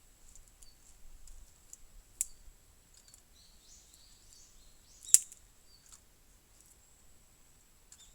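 Burning wood crackling: a few scattered sharp pops, the loudest about five seconds in.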